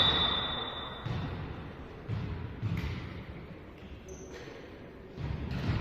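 Volleyball being struck during play in an echoing sports hall: a few sharp hits with a reverberant tail, the loudest near the end.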